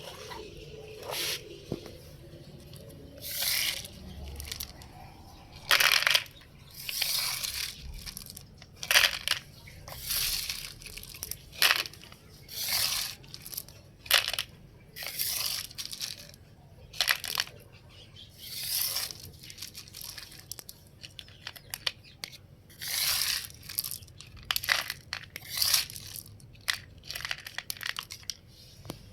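Small gravel crunching and pouring in short, irregular bursts every second or two, as it is scooped and tipped into a toy truck.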